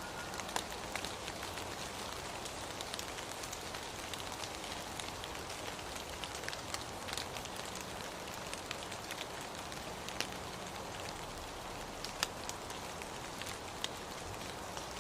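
Steady rain: an even hiss with many sharp, irregular ticks of single drops landing close by.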